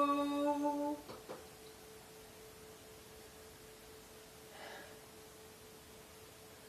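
A woman's sustained sung note stops about a second in, leaving a single faint, steady pure tone ringing on.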